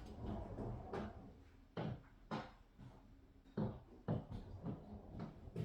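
Several separate light knocks and clicks of objects being handled and set down.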